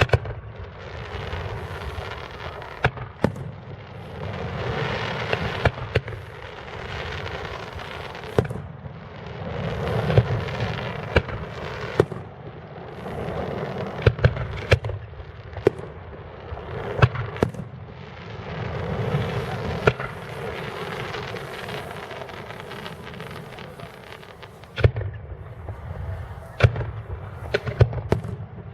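Fireworks display: sharp bangs of shells bursting overhead, many of them singly and some in quick clusters of two or three. Between them come swells of noise lasting a second or two.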